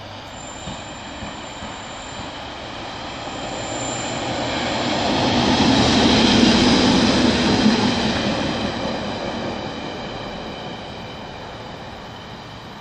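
Train passing through the station, growing louder to a peak about six to seven seconds in and then fading, with high steady wheel squeal over the rail rumble.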